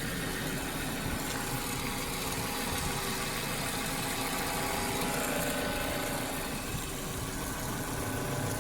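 Car engine idling steadily with the air-conditioning compressor running.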